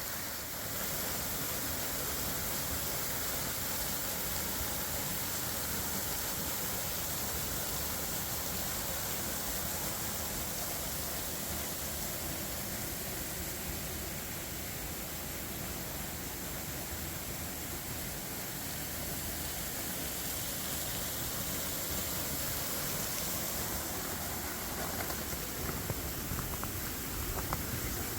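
Water pouring over a partly frozen waterfall: a steady rushing hiss, with a few faint ticks near the end.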